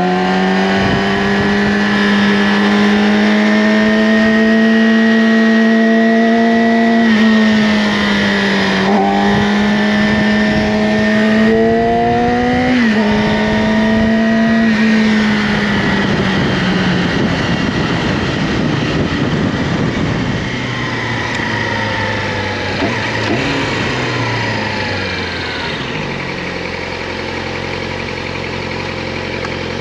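Yamaha R6's inline-four engine through an Akrapovic slip-on exhaust, held at steady revs with a dip and climb in pitch at each of two gear shifts. Then the throttle closes and the revs fall away over several seconds, settling into a steady idle near the end.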